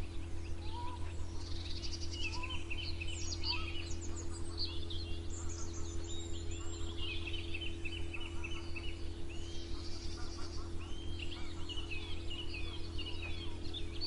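A dawn chorus of several songbirds chirping and trilling at once, short calls overlapping one another throughout, over a steady low hum.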